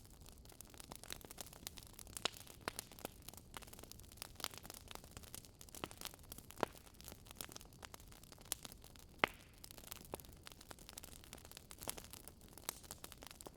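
Wood fire crackling: irregular sharp snaps and pops from burning logs over a faint hiss, with a few louder pops scattered through.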